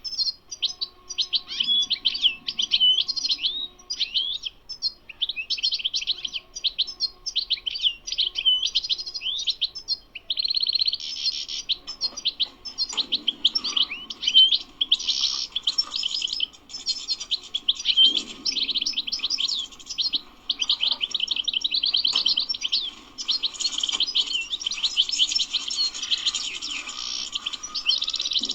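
European goldfinch singing: long runs of rapid twittering trills and buzzy notes, phrase after phrase. The song has short breaks at first and becomes almost unbroken about halfway through.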